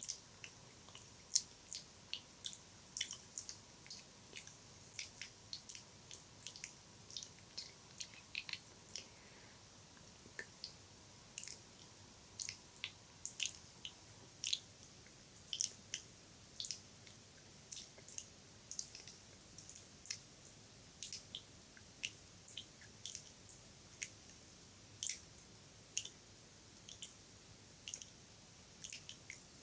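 Wet mouth sounds: irregular soft clicks, smacks and squelches, about two or three a second.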